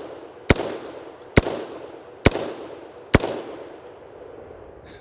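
BCM AR-15 in 5.56 firing four aimed semi-automatic shots, a little under a second apart, each report trailing off in an echo. The rifle is running dry and uncleaned through an endurance test.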